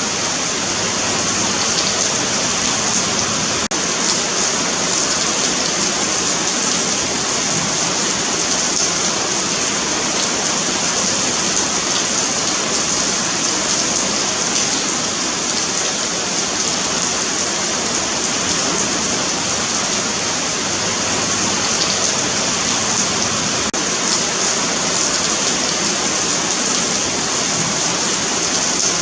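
Steady rain falling on a paved sidewalk, a continuous even hiss of drops on concrete.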